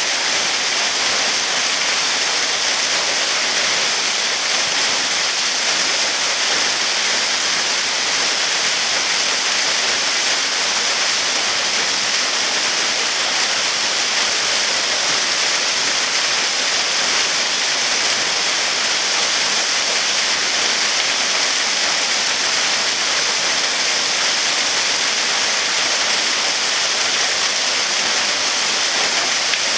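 Waterfall: a steady, even hiss of falling water, strongest in the high range.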